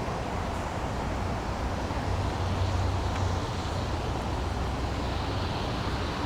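Wind buffeting the microphone: a steady low rumble under an even hiss, with no distinct events.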